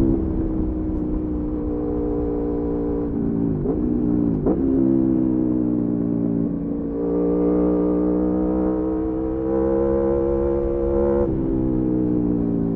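Aprilia Tuono V4 motorcycle engine on the move. Its pitch sinks as it slows, dips and recovers sharply twice around four seconds in, then pulls steadily with the pitch slowly rising before dropping suddenly about eleven seconds in as the throttle comes off.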